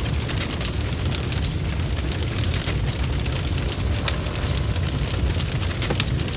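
Wood fire crackling: many small, quick pops and snaps over a steady low rumble of the flames.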